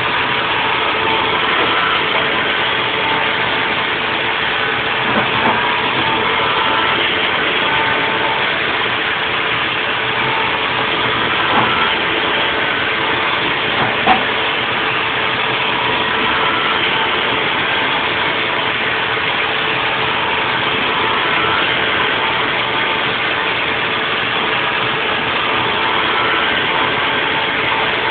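Haas VF4 vertical CNC mill running a 3D machining cycle on a nest block: a steady machining noise with a constant hum, higher tones that come and go, and a few short clicks about 5, 11 and 14 seconds in.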